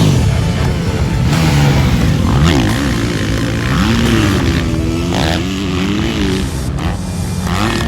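Motocross dirt bike engines revving on the track, the pitch rising and falling again and again as the riders work the throttle.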